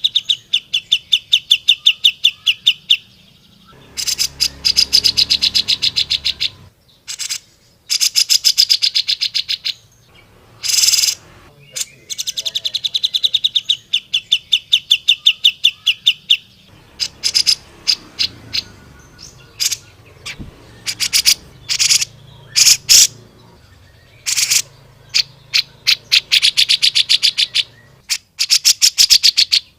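Grey-cheeked bulbul (cucak jenggot) singing loudly. It gives rapid trills of sharp, evenly repeated notes, about eight a second, each trill lasting two to three seconds. Between the trills come scattered single sharp notes.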